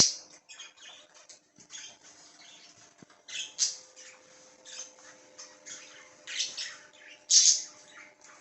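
Budgerigars giving short, harsh squawks and chirps, scattered irregularly, with loud calls at the start and again near the end.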